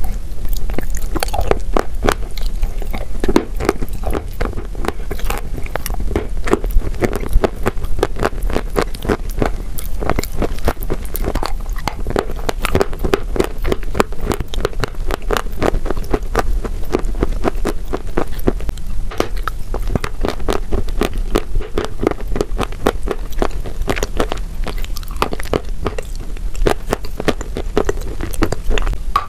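Close-up crunching and chewing of cookies coated in wet chalk paste, a dense, unbroken stream of crisp crackles.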